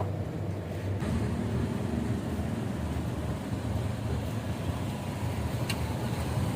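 Motorcycle engine running steadily while riding, with road and wind noise. There is a short sharp click near the end.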